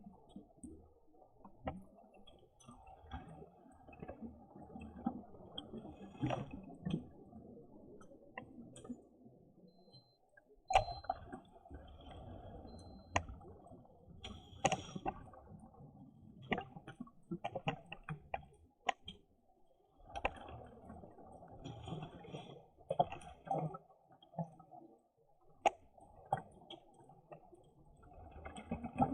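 Underwater sound of scuba diving: rushing bubble noise from the diver's regulator comes in long stretches broken by short quiet pauses, with many sharp clicks and crackles scattered throughout.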